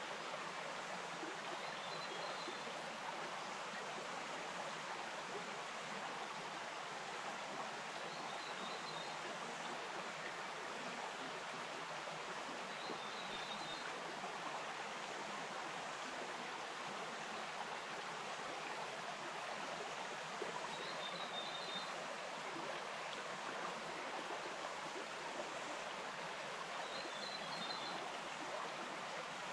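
Stream water flowing steadily. A short high chirp sounds five times, every five to eight seconds.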